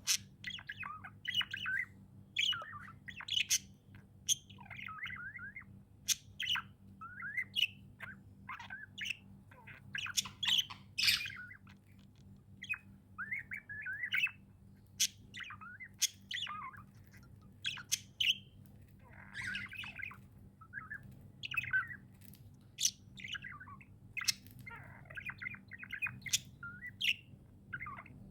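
Pet budgerigars chirping and warbling continuously, a busy run of short chirps, chatter and sharp squawks, several birds overlapping at times. A faint low steady hum sits underneath.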